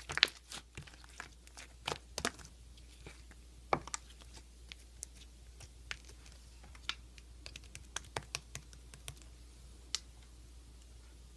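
Sparse light clicks and taps, irregularly spaced, the loudest in the first couple of seconds, over a faint steady hum.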